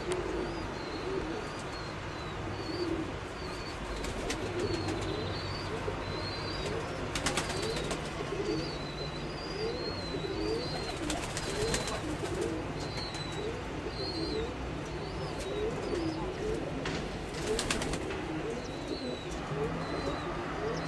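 Domestic pigeons cooing, one low coo after another every second or so, with a faint high chirping running over it.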